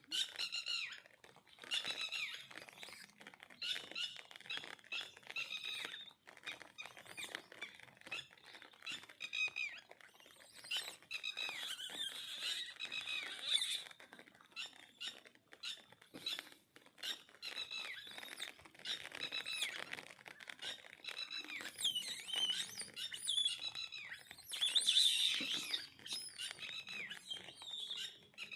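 Monkeys squealing and squeaking in agitation, a dense run of short high-pitched calls, many falling in pitch, with a louder cluster about 25 seconds in.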